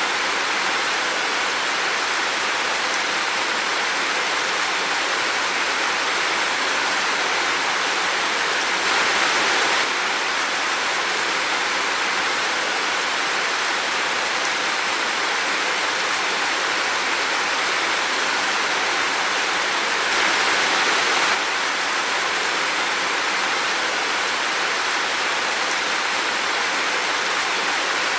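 Heavy rain falling in a steady, dense hiss, swelling briefly twice, about nine and twenty seconds in.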